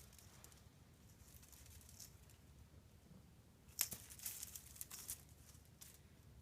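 Faint crinkling and rustling from a playing cat. A sharp click comes about four seconds in, followed by a busier second of crinkly rustling.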